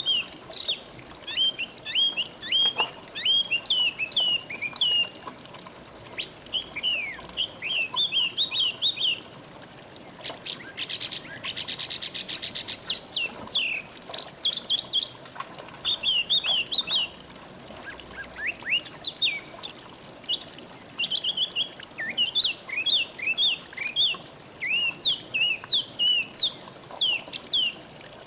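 Songbird singing long runs of quick, sweeping chirps and whistles, with a fast trill about eleven seconds in and short pauses near the ten- and eighteen-second marks, over a steady hiss of flowing water.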